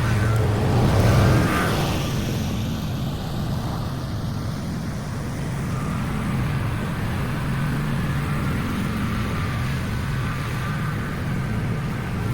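Small lawn mower engine running steadily at a constant speed, a little louder in the first couple of seconds.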